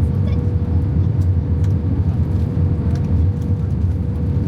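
Steady low rumble of a vehicle in motion heard from inside, with a constant hum above it and a few faint ticks.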